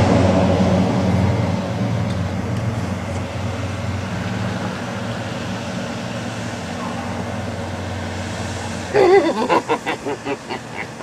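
Motor vehicle engine running with a low hum that fades over the first few seconds and then holds steady and quieter. About nine seconds in, a person's voice breaks in with quick, repeated wavering sounds like laughter.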